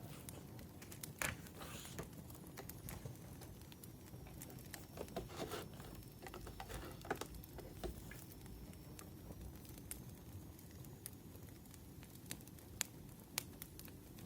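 Firewood fire crackling faintly, with scattered sharp pops over a low steady rumble, and a brief rustle about five to seven seconds in.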